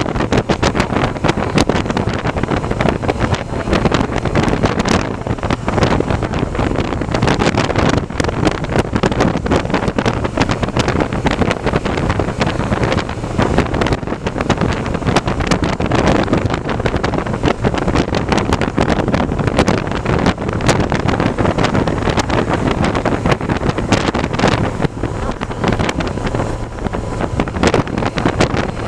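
Wind buffeting the microphone of a moving bike: a loud, constant rush and crackle with a low rumble underneath.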